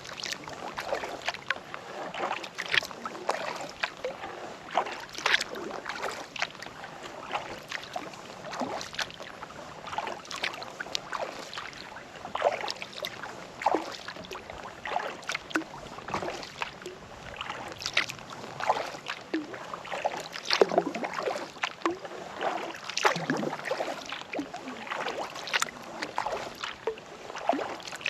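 Kayak paddling on a calm lake: the paddle blades dipping and pulling through the water, with irregular splashes and drips running off the blades. A couple of fuller splashes come around two-thirds of the way through.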